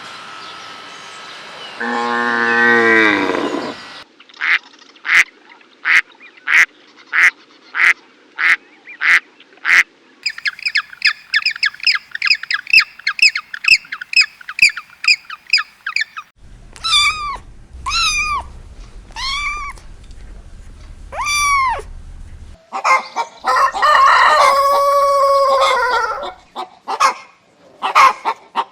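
A string of farm-animal calls in short clips one after another, mostly poultry: runs of repeated bird calls a few per second, then slower arching honk-like calls, and a loud, drawn-out complex call near the end. A single rising pitched call comes near the start.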